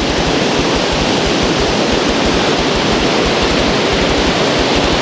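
Waterfall roaring steadily, a constant loud rush of falling water, with low fluttering rumbles underneath.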